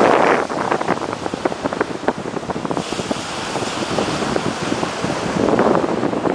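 Atlantic surf breaking and washing on the shore, with wind buffeting the microphone. A wave surges at the start and another a little before the end, with a hissing wash of foam from about halfway through.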